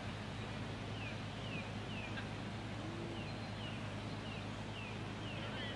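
A bird calling a run of short, falling chirps, about two a second, over a steady low background hum.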